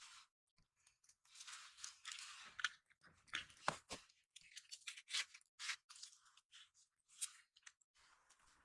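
An irregular series of short crunching and scraping sounds with a few sharp clicks in between, faint overall.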